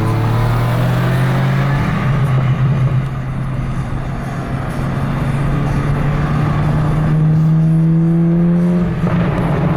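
Straight-piped Mk7.5 Golf GTI's turbocharged 2.0-litre four-cylinder exhaust droning at steady light throttle, its pitch slowly rising as the car gathers speed, with a brief dip near the end.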